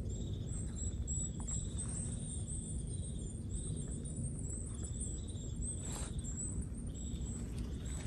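Faint, short, high-pitched bird calls repeating in a quiet forest over a low steady rumble, with one sharp click about six seconds in.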